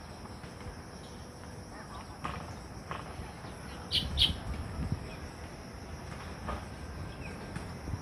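A perched songbird gives two short, sharp, high calls about a quarter second apart, roughly halfway through, over a faint steady hiss and low rumbles from camera handling.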